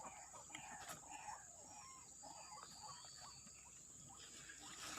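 White-breasted waterhen calls: many short, quick notes, faint, over a steady high insect buzz.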